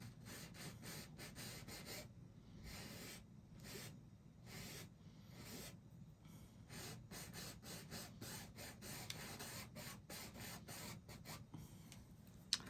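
Faint scratchy strokes of a paintbrush's bristles scrubbing across a canvas, repeating irregularly, a little quicker in the second half.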